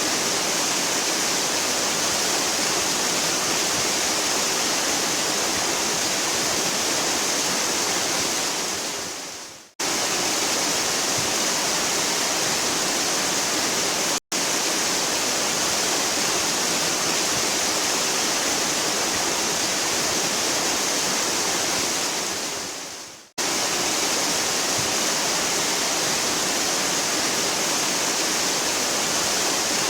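A waterfall rushing: a steady, hissy roar of falling water, brightest in the high range. It fades away and snaps back in suddenly about ten seconds in and again about thirteen seconds later, with a momentary dropout between the two.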